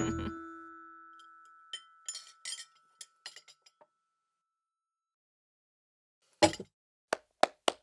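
The ringing tail of a short musical chime fades out, then a few light clinks of dishes and cutlery, followed near the end by a louder knock and three sharp taps.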